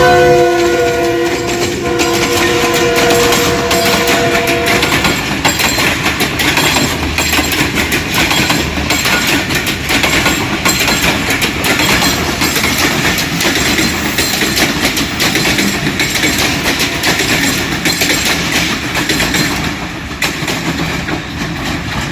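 A GE U20C diesel-electric locomotive sounds its multi-tone horn for about five seconds. A passenger train then passes close by, its wheels clattering over a rail joint in a long rapid run of knocks that eases off near the end. The joint is a makeshift, loosely fixed one that bounces under the train, which the filmer warns could lead to a derailment.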